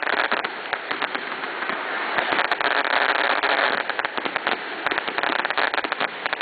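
Fireworks crackling: a dense run of rapid pops and clicks over a steady hiss.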